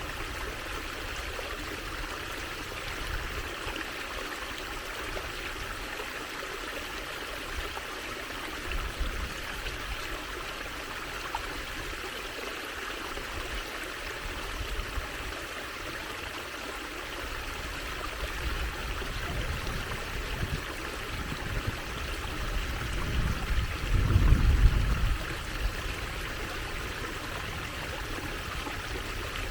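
Water trickling and flowing steadily over stones, a small stream. Low rumbles come and go underneath, with the strongest swelling and fading about four-fifths of the way through.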